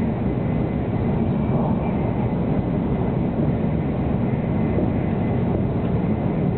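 Steady low running noise of a 700 Series Shinkansen at speed, heard inside the passenger car.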